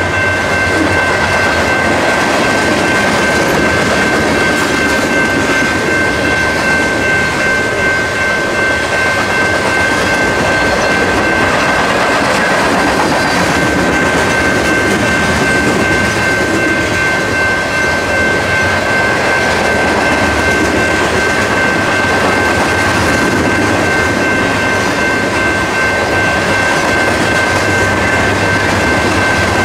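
A train rolling past at close range: a loud, steady rumble of wheels on rail, with a steady high-pitched ring over it.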